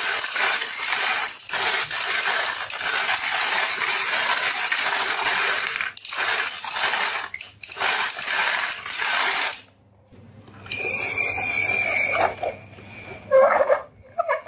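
Many marbles rolling and clattering down a marble run, a dense rattle of clicks that stops suddenly about ten seconds in. After it comes a short high electronic tone, then a few sharp clicks near the end.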